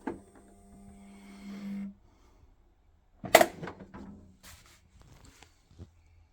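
A small motor hums steadily and stops about two seconds in. A second later there is a sharp, loud knock, then a few lighter clicks and taps.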